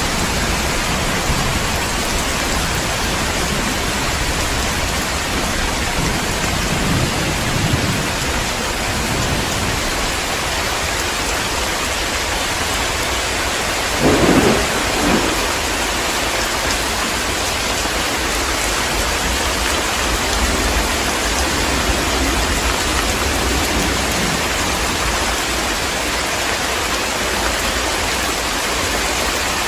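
Heavy rain falling steadily, with a low thunder rumble a few seconds in and a short, louder thunderclap about halfway through.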